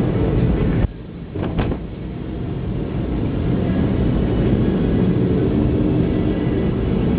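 Car engine and road noise heard from inside a moving car. The noise drops suddenly about a second in, then builds back up and runs steadily.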